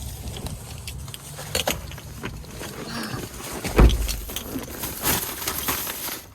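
Rustling and clicking, like things being handled and shifted, with one heavy low thump a little under four seconds in.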